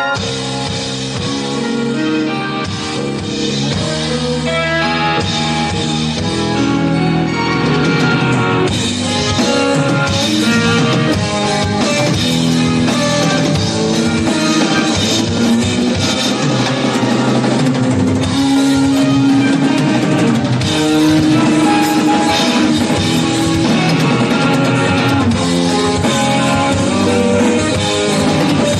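A live rock band playing instrumentally: electric guitar, bass, keyboards and drum kit. The drums and cymbals fill in from about eight seconds in.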